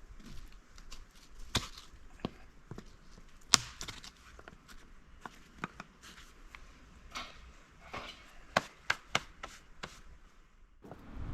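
Irregular sharp knocks and snaps of dry wood being handled, loudest about three and a half seconds in and in a quick run of several near the end.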